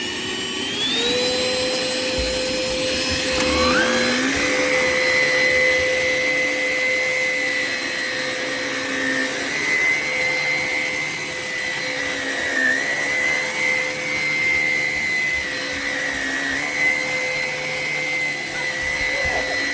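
Hoover ONEPWR Evolve Pet Elite cordless stick vacuum motor spinning up with a rising whine, stepping up to a higher pitch about four seconds in, then running steadily with brief small dips in pitch.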